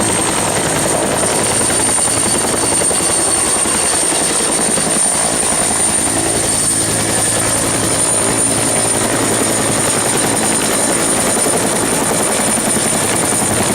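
Helicopter sound: a steady, dense rotor and engine noise with a thin high whine over it, unchanging throughout.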